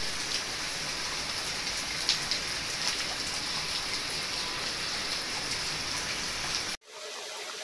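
Heavy rain falling steadily, an even hiss with a few sharper drop ticks; it cuts off suddenly near the end.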